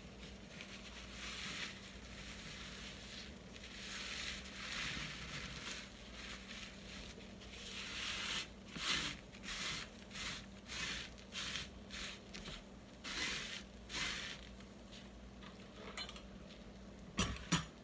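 Canola oil cooking spray can hissing in a run of short bursts, the can running low. A couple of sharp knocks near the end.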